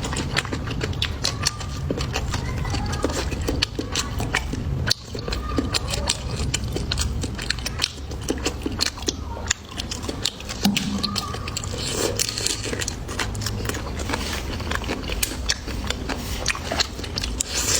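Close-up chewing and biting of food: many quick crunchy clicks and wet mouth sounds.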